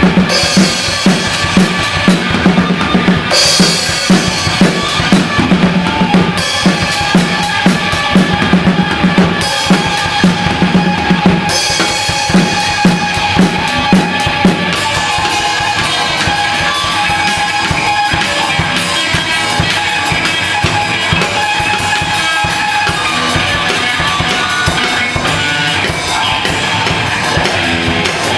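A band playing music led by a drum kit, with steady bass drum and snare hits and other instruments. The hits are sharp and regular at first, then blend into a denser, more even wash about halfway through.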